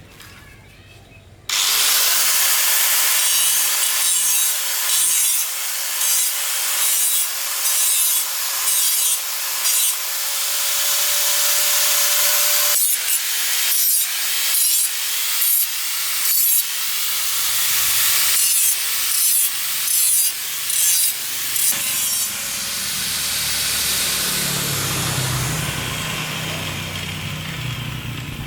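Harsh, rhythmic rasping strokes, like sawing or scraping, starting suddenly about a second and a half in and repeating about once or twice a second.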